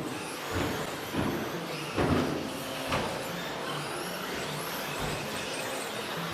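Several 2WD electric RC stadium trucks with 13.5-turn brushless motors racing around the track: a steady wash of motor whine and tyre noise, with a few louder thumps in the first three seconds.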